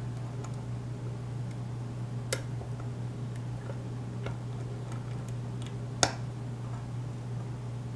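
Faint metallic clicks and ticks of a lock pick working the pins of a pin-tumbler lock with a Schlage keyway, with two sharper clicks about two and six seconds in.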